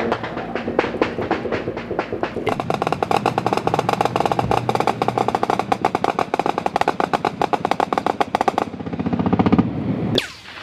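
Sustained automatic gunfire: a long, unbroken string of rapid shots, many a second, that stops about three-quarters of the way through, with a few more shots near the end.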